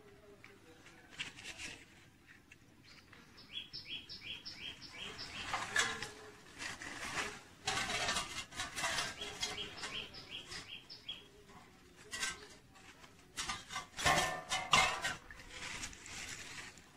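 A bird calling in two runs of short, evenly spaced high notes, about four a second, over the rustle and crackle of grape-vine leaves and stems being handled, loudest near the end.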